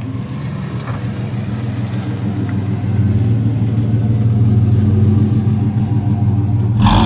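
A truck engine idling steadily, growing a little louder partway through, with a short rush of noise near the end.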